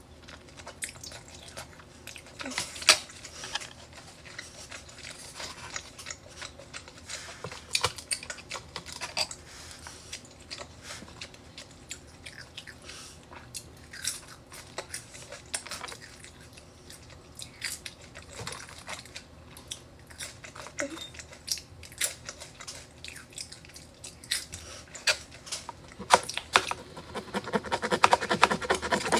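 Close-miked chewing and mouth sounds of eating steak and French fries, with scattered sharp smacks and clicks. From about three seconds before the end, a knife saws through the steak on a wooden board in quick rasping strokes.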